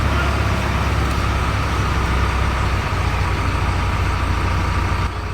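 Diesel engine of a JCB 3DX backhoe loader running steadily, with a deep low rumble and a faint steady whine above it.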